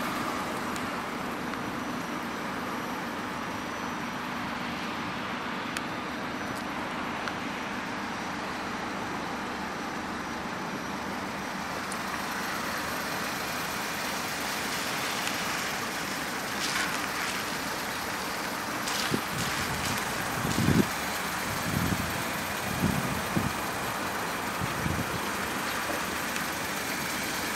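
Opel Corsa engine idling, heard from outside the car as a steady hum, with a few dull low thumps in the second half.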